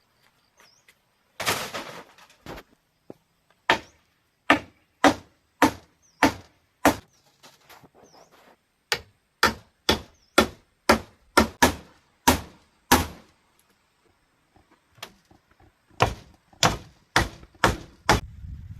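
Repeated sharp blows on bamboo, chopping or hammering, about two strikes a second in runs broken by short pauses.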